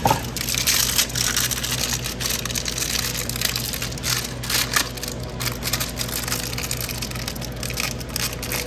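Continuous scratchy, crackling handling noise with many small clicks: stiff electrical wires and wire connectors being pushed and folded into an electrical box.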